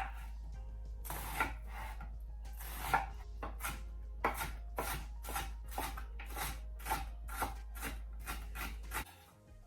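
Knife chopping a yellow onion on a cutting board: scattered strokes at first, then a steady run of about three chops a second from about four seconds in.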